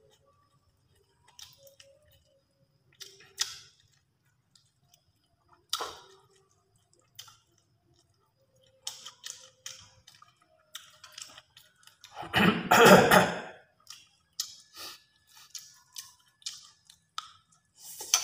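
Close-up eating sounds of grilled fish and rice eaten by hand: scattered short mouth clicks, smacks and chewing. One much louder, longer noisy burst comes about twelve seconds in.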